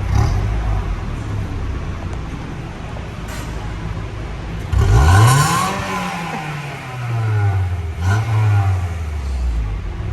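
1998 Honda Prelude's four-cylinder engine on its stock exhaust, running low and then revved once sharply about five seconds in, the pitch climbing fast and easing back down over a couple of seconds, with a smaller blip of the throttle about three seconds later.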